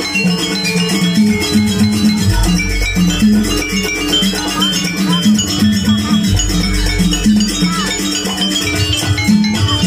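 Live jaranan gamelan music: a dense, fast percussion beat over a repeating low melodic figure, with higher pitched notes stepping above it.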